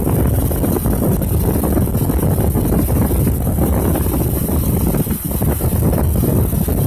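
Heavy vehicle engine running steadily as a low rumble, with wind buffeting the microphone.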